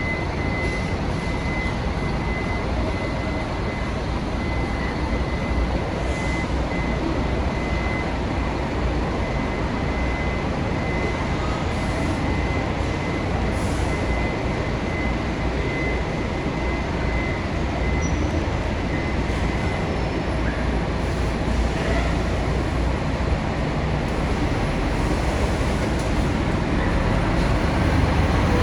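Scania K400 bus engine running steadily amid traffic noise, with a thin steady high whine through the first half or more. It gets louder near the end.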